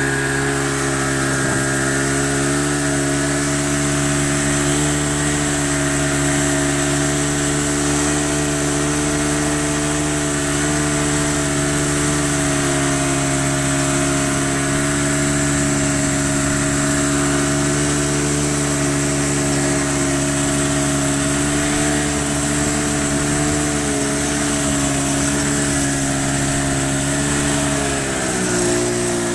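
Vehicle engine running at a steady pace while driving, with a steady pitch that dips briefly and comes back up near the end.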